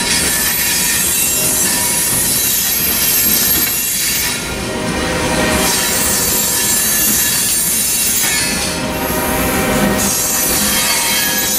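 Loaded coal hopper cars of a freight train rolling past, steel wheels running on the rails with a high-pitched flange squeal held over the rumble. The sound dips briefly twice, about four seconds in and again past eight seconds.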